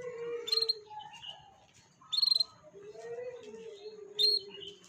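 Canary song used as a lure track: three loud, sharp chirps about two seconds apart over lower, drawn-out calls and faint high twittering.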